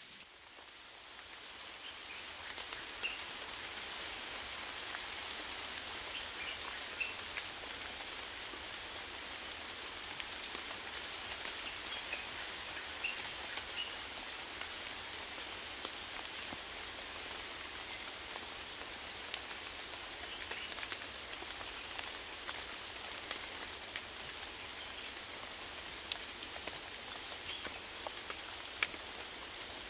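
Steady rain falling, a dense patter of drops on surfaces, fading in over the first few seconds and then holding even.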